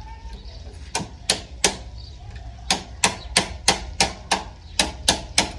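Sharp repeated hammer strikes, about three a second, in short runs with brief pauses between, as work is done on a bike under repair.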